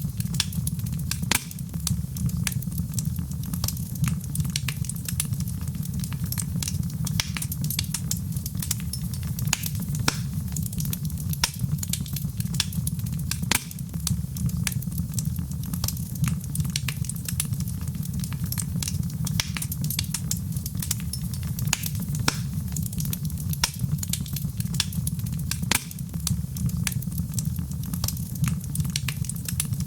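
Wood fire burning in a fireplace, with a steady low rumble and frequent sharp crackles and pops.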